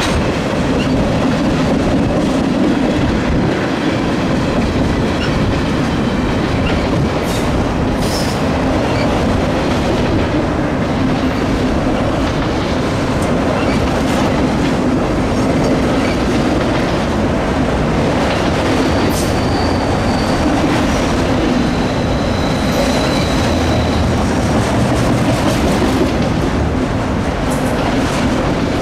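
Freight train's tank cars and autorack cars rolling past steadily, wheels clicking over the rail joints. Brief high wheel squeals come about two-thirds of the way through.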